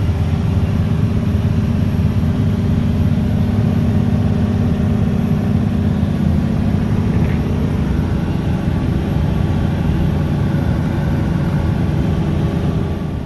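Mack snowplow truck's diesel engine running steadily, a constant low drone heard from inside the cab.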